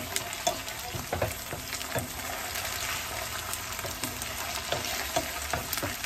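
Onions with ginger and garlic paste sizzling in hot oil in a nonstick frying pan, with a steady hiss. A wooden spatula stirs them, scraping and tapping the pan about once a second.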